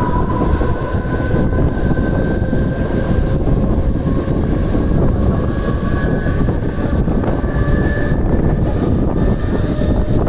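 Mumbai suburban electric local train running at speed, heard from its open doorway: a loud, steady rumble of wheels on track mixed with rushing air, with faint high whining tones that drift slowly in pitch.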